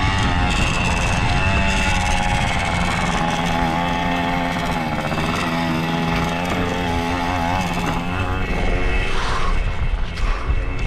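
Pit bike engine running with the throttle varying, its pitch rising and falling. The engine note fades about eight seconds in, leaving a rougher noise.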